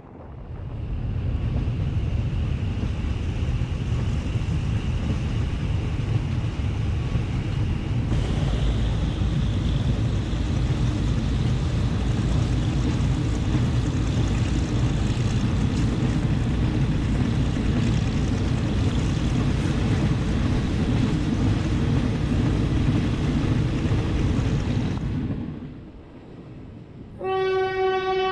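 Steady loud rumble and rush of a moving train with wind buffeting the microphone, which cuts off about 25 seconds in. A couple of seconds later a locomotive horn starts to sound one steady tone.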